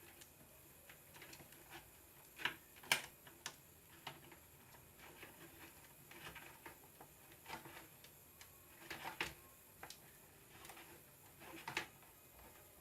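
Scattered light clicks and taps of small parts being handled: wire ends being fitted onto the terminals of a mixer grinder's switch. The sharpest clicks come about two and a half to three seconds in, and again near nine and near twelve seconds.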